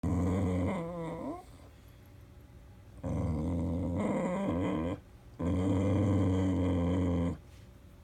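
Dog begging for food with three drawn-out, low growling vocalisations that waver in pitch, each about one and a half to two seconds long, with short pauses between.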